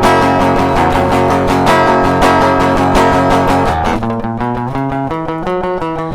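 Acoustic guitar playing an instrumental passage of a song: steady rhythmic strumming that gives way, about four seconds in, to sparser, separately plucked notes.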